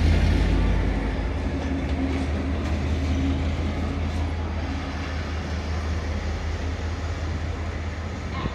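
Railway locomotive moving slowly during a locomotive change, with a low rumble that is loudest at first and gradually fades, and a few faint clicks.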